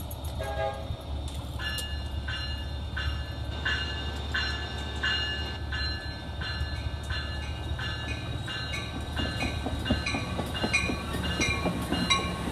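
Train at the station with a bell ringing steadily, about one and a half to two strokes a second, over the low rumble of the train, with clicking from the rails in the last few seconds.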